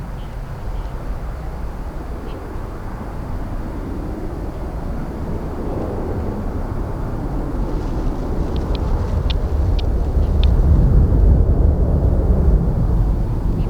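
Jet airliner engines rumbling deep and low, growing louder toward a peak near the end.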